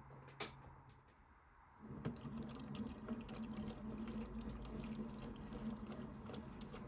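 Toy Bosch Logixx 8 washing machine: a click, then about two seconds in a small motor starts humming steadily along with the sound of pouring, splashing water, as the machine takes in or moves water early in its programme.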